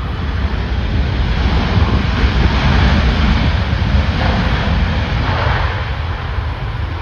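Storm-force wind buffeting the microphone: a heavy, fluctuating rumble under a broad rushing roar that swells through the middle seconds and eases near the end.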